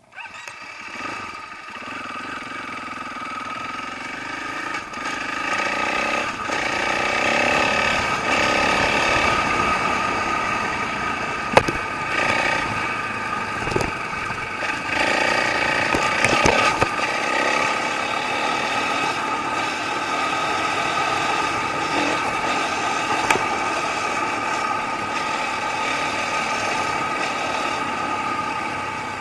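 Dirt bike engine running as the bike is ridden along a dirt trail, building over the first few seconds and then holding steady, with a few sharp knocks partway through.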